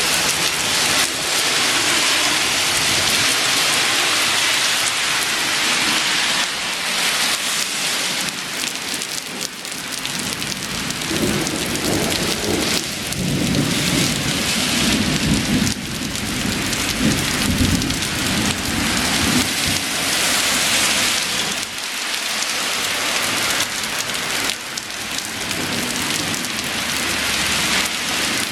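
Heavy thunderstorm rain pouring steadily, with a long, deep roll of thunder rumbling for several seconds in the middle.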